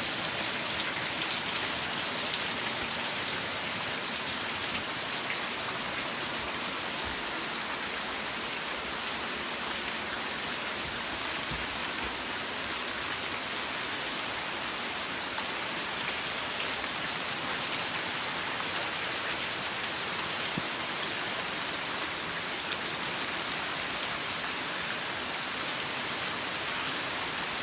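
Hail storm: hail and rain pelting down in a steady, dense patter of countless small impacts.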